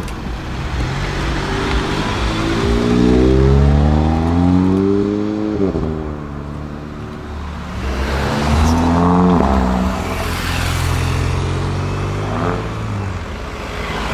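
Volkswagen Golf 7's turbocharged four-cylinder engine accelerating hard through its quad-exit exhaust. The revs climb for a few seconds, drop at an upshift about six seconds in, climb again, shift once more about a second and a half later, then pull on at steadier revs.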